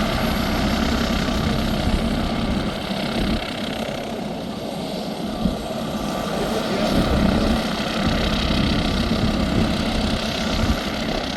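MD 902 Explorer twin-turbine NOTAR helicopter running: a steady turbine whine over the hum of the rotor, easing a little about a third of the way through and then building again.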